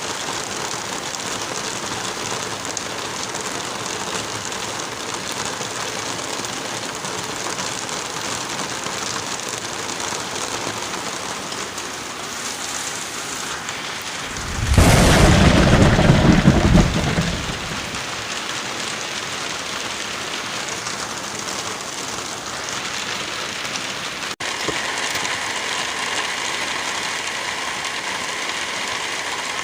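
Steady heavy rain, with one loud rumble of thunder about halfway through that lasts about three seconds. A brief dropout comes about two-thirds of the way in.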